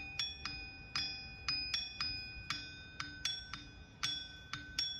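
Light strikes on metal, about three to four a second in an uneven rhythm, each leaving several high tones ringing on.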